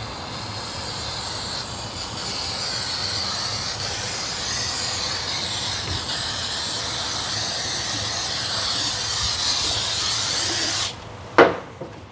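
Aerosol can of brake cleaner sprayed in one long, steady hiss onto the valve cover, cutting off sharply about a second before the end. Then a single sharp knock.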